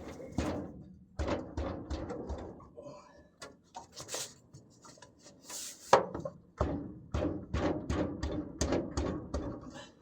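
Irregular knocks and thunks of something striking a stuck wiring plug in the dash of a 1965 Chevrolet C10 to beat it loose. The knocks come more often in the second half, with a sharper one about six seconds in.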